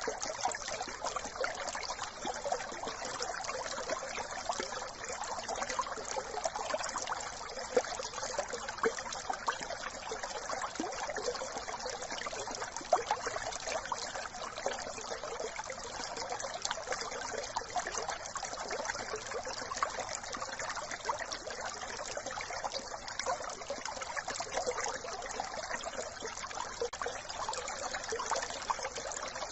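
Small brook babbling and trickling over stones, a steady splashing flow with constant fine ripples.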